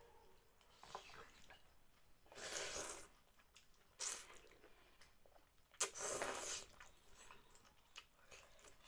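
Close-up eating sounds of thukpa noodle soup eaten by hand: soft wet chewing and clicks, with three louder slurps, the longest about six seconds in.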